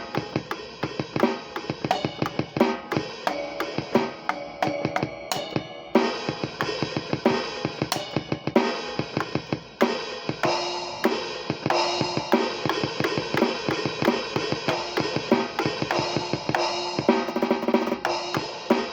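A drum kit played loosely, with fast strokes on the bass drum and snare under ringing cymbals.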